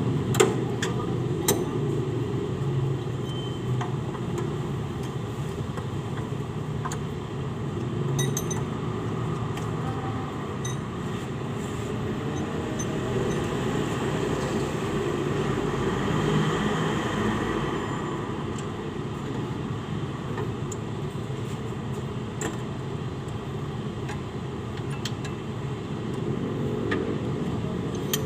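Steady low mechanical rumble with a few sharp clicks scattered through it.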